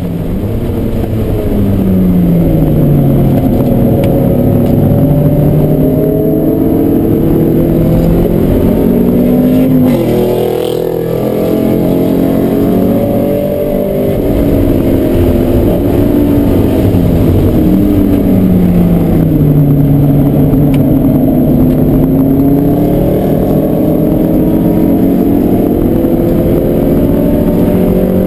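1990 Mazda NA MX-5's 1.6-litre four-cylinder engine heard from inside the cabin, lapping a race track: the engine note rises in pitch under acceleration and drops on lift-off and gear changes, over and over. The loudness dips briefly about ten seconds in before the engine pulls hard again.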